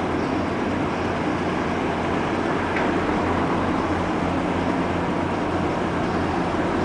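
Ship's engine running with a steady low rumble and hum as the ship leaves port, with a faint click a little under three seconds in.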